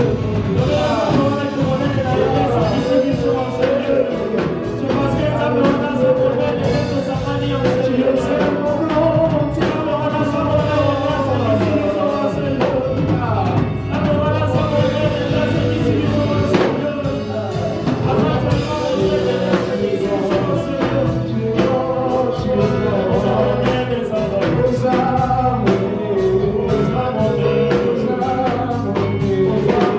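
Gospel praise music: voices singing over a live band with drums, steady throughout.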